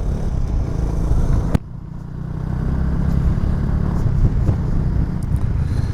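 Honda Super Cub C125's single-cylinder engine and wind rumble while riding, heard from a microphone inside the rider's helmet. About a second and a half in there is a sharp click and a brief drop in level, then the sound builds again.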